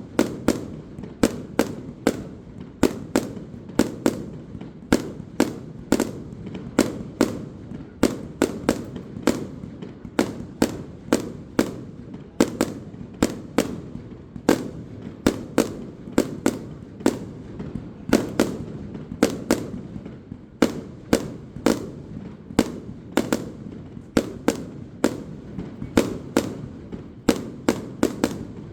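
Fireworks display: rapid, continuous sharp bangs of aerial shells bursting, several a second, over a steady rumbling background.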